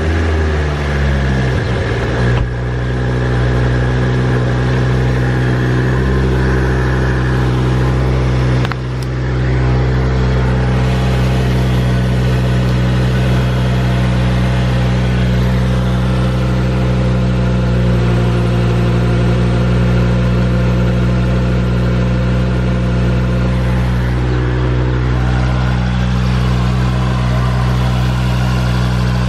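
Ford Focus ST Mk2's 2.5-litre turbocharged five-cylinder engine just after starting, its revs falling from the start-up flare over the first two seconds, then idling steadily. It is being run after a radiator replacement to check for coolant leaks.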